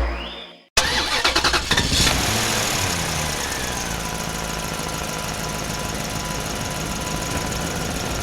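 A combustion motorcycle engine starts about a second in, fires unevenly for a moment, then its revs fall and it settles into a steady idle. Music fades out just before it.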